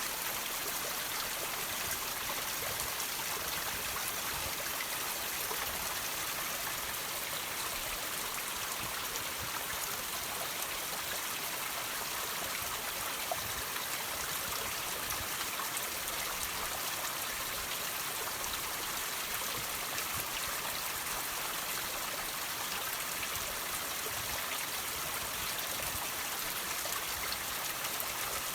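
Water dripping and trickling off rocks: a steady splashing hiss of running water with many fine drips scattered through it.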